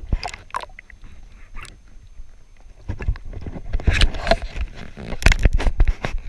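Canoe being paddled: irregular knocks of the paddle against the hull, with water noise, busiest from about three seconds in.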